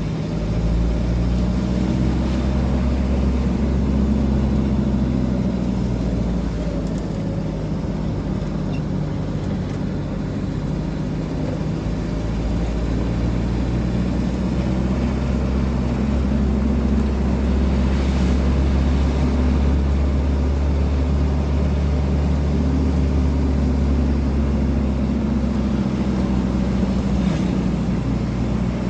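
A vehicle engine running steadily: a low hum with several pitch lines that drift gently up and down, over a faint haze of road noise.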